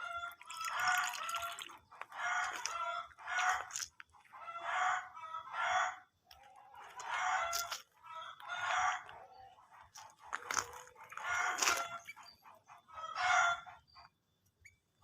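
Chicken clucking and cackling repeatedly, about ten short calls a second or so apart.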